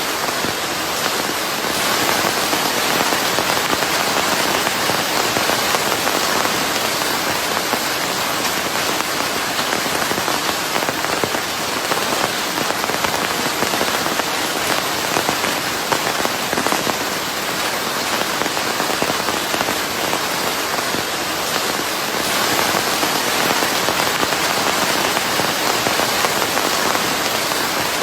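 Steady, dense rain falling on a surface, a constant hiss with fine patter and no breaks.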